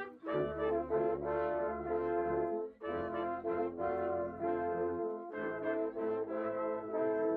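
Brass band music: sustained chords from massed brass instruments, moving from chord to chord every second or so, with short breaths between phrases.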